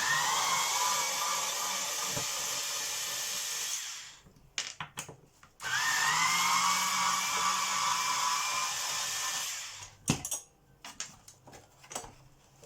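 Cordless power screwdriver running twice, about four seconds each time, undoing the screws that hold a vacuum cleaner's handle ratchet. Each run starts with a rising whine that then holds steady, and small clicks of parts being handled fall between and after the runs.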